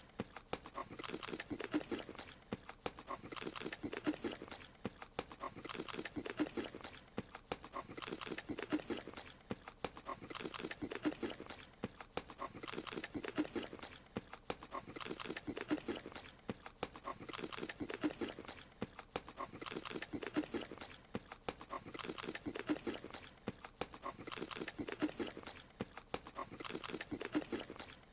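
Cartoon creature's eating sound: crunchy munching and chewing on a strawberry, repeating in an identical loop about every two and a half seconds.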